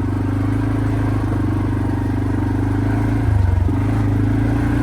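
Quad bike engine running steadily while riding; its note dips briefly and comes back a little over three seconds in.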